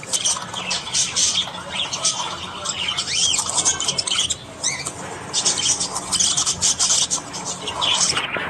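Budgerigars chattering: a dense, unbroken stream of quick chirps, scratchy squawks and short warbles that bend up and down in pitch.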